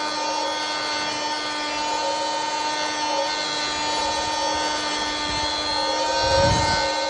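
Small handheld vacuum's motor running with a steady whine, sucking pollen off a dragon fruit flower. A low bump comes about six and a half seconds in.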